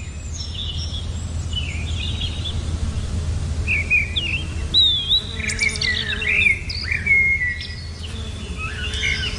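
Songbirds chirping and singing in short whistled phrases with quick up-and-down glides, coming in bouts and busiest in the middle, over a steady low rumble.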